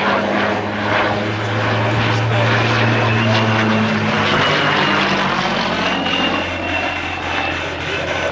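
Rolls-Royce Merlin V12 of a WWII piston-engined fighter making a low pass, its steady engine and propeller note dropping in pitch about halfway through as it goes by.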